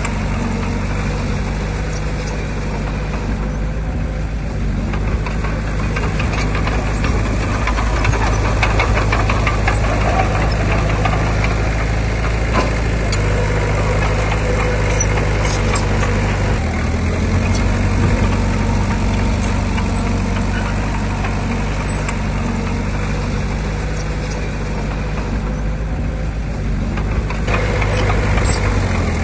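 Heavy earthmoving machinery's engine running steadily, its note shifting about halfway through, with clattering over the middle stretch.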